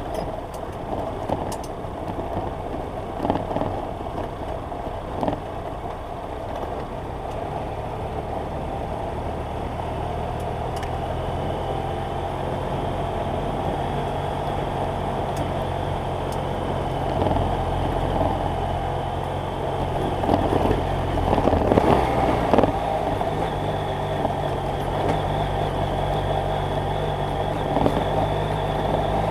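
BMW F800GS Adventure's parallel-twin engine running while the bike is under way, its note shifting a few times as the speed changes. Wind and road noise run under it, with a few thumps, the loudest about two-thirds of the way through.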